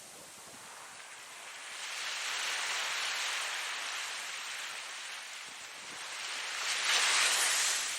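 Ocean waves breaking and washing in, a steady rushing surf. One wave swells about two seconds in, and a louder one breaks near the end before fading.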